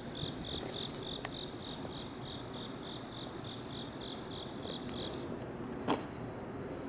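Crickets chirping: one sings a high, even pulsed chirp about three to four times a second and stops about five seconds in, and a fainter, slightly higher chirp carries on after it. A single sharp click sounds just before the end, over a steady low background rumble.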